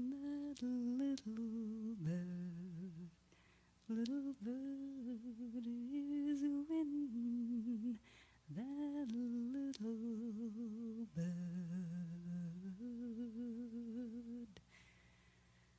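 A singer humming a slow, wordless melody with vibrato and no accompaniment, in phrases broken by short pauses; the voice stops near the end.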